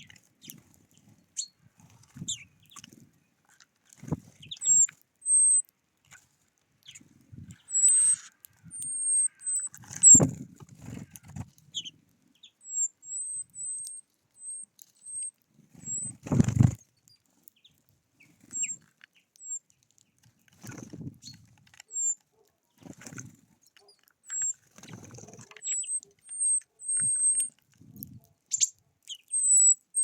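Small birds at a feeder giving short, thin, high-pitched calls again and again. Under the calls are scattered soft knocks and wing flutters from birds landing and pecking, with two louder thumps about ten and sixteen seconds in.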